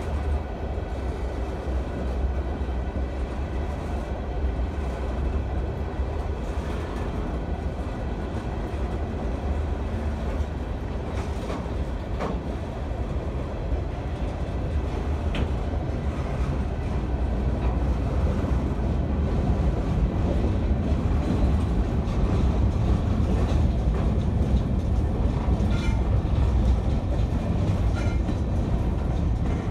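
Freight cars of a long freight train rolling past, covered coil-steel cars and then centerbeam flatcars: a steady low rumble of steel wheels on rail with occasional clacks over rail joints, growing a little louder past the middle.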